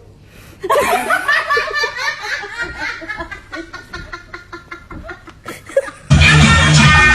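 A person laughing in a long run of short bursts, tailing off. Loud music with a beat cuts in suddenly near the end.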